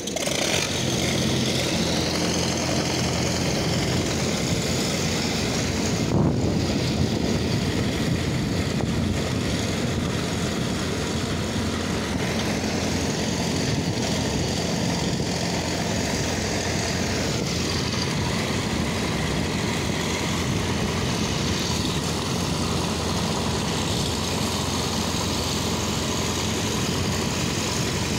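Passenger train rolling past, hauled by an electric locomotive and followed by its coaches: a steady running noise with a low hum.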